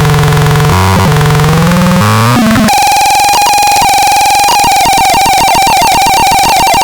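Loud synthesized electronic tones from the Baltarel Ultra Max being demonstrated. Low, stepping tones switch about two and a half seconds in to a higher, rapidly pulsing tone.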